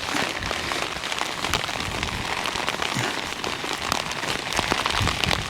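Heavy rain falling, with many close drops pattering, and low rumbles of wind on the microphone.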